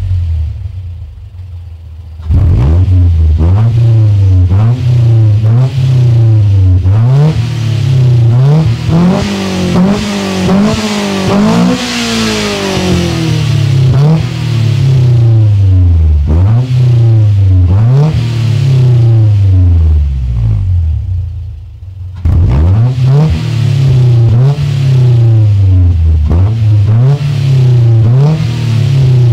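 Honda VTEC engine with a Viper aftermarket exhaust and induction kit, idling briefly and then revved over and over in quick blips, about one a second, each rev rising and falling back, with one longer climb in the middle. After a short drop back to idle the quick revving starts again.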